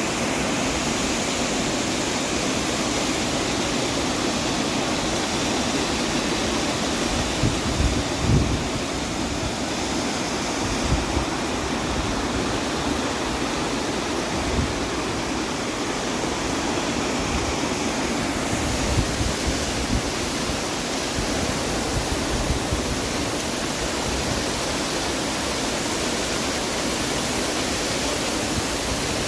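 Upper Düden Waterfall's water pouring down, a loud, steady rush, with a few brief low bumps.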